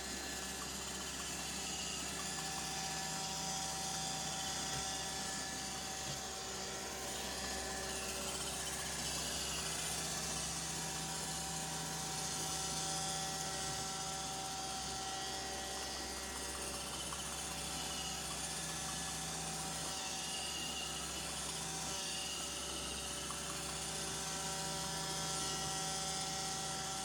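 iRobot robot vacuum running, its motors and brushes giving a steady whirring hum with a high hiss.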